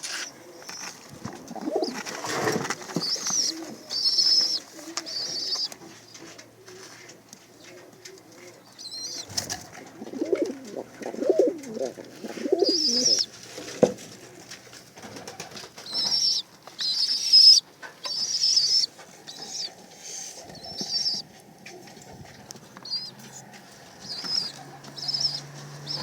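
Blue Qatifi tumbler pigeons cooing in low, pulsing bouts, with clusters of high-pitched chirps now and then.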